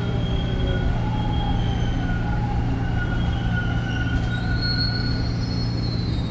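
TTC Line 2 subway train running between stations: a steady low rumble with thin, high wheel-squeal tones that drift slowly in pitch, the highest one strongest late on.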